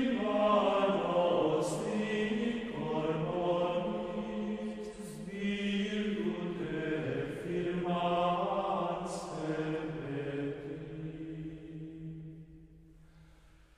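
Slow sung chant: held notes stepping from pitch to pitch, fading away near the end.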